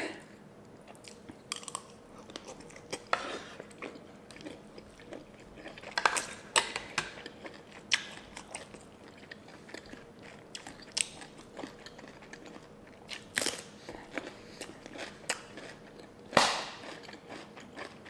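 Close-miked eating: chewing with sharp, crisp crunches as a raw cucumber and mouthfuls of seafood papaya salad are bitten and chewed. The crunches come irregularly, with the loudest bites about six seconds in, around thirteen seconds and near the end.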